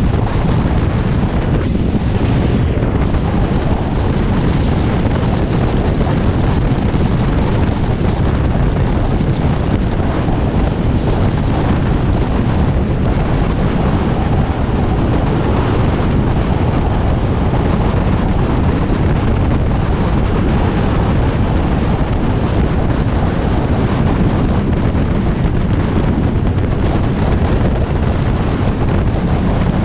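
Steady wind buffeting the microphone of a Harley-Davidson Iron 1200 motorcycle riding at speed, loudest in the low range, with the bike's running drowned beneath it.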